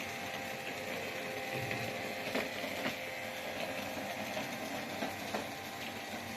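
Robot vacuum cleaner running: a steady motor whir with a faint hum, with a few light clicks and taps scattered through, the loudest about two and a half and three seconds in.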